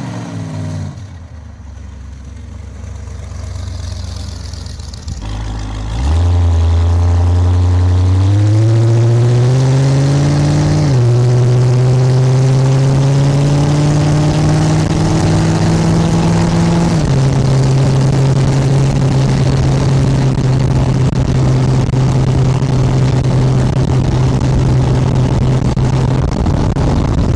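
Chevrolet V8 engine of a chopper trike, at first a quieter rumble, then suddenly loud about six seconds in as it pulls away and accelerates. Its note climbs and drops twice at gear changes, then holds steady at cruising speed.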